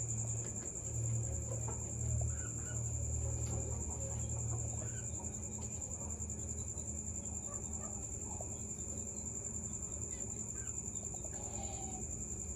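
A steady, high-pitched insect trill, cricket-like, with scattered faint short chirps from small birds, likely the Bengalese finches, over a low hum that fades after the first few seconds.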